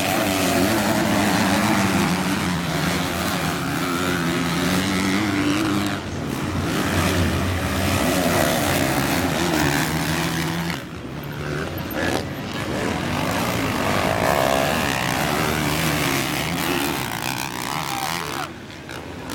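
Motocross bike engines running and revving, their pitch rising and falling as the riders work the throttle.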